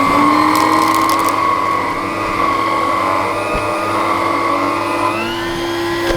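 TriStar EXL canister vacuum cleaner motor running steadily just after switch-on, a loud whine with a strong low tone. About five seconds in, its pitch shifts upward: a sound change from the rear of the machine that the owner traces to the aftermarket filter popping off.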